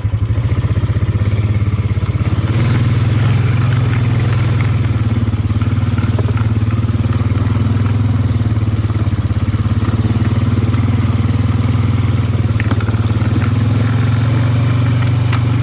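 ATV engine running steadily while riding, its pitch nearly constant, with scattered light clicks and rattles from the machine over the trail.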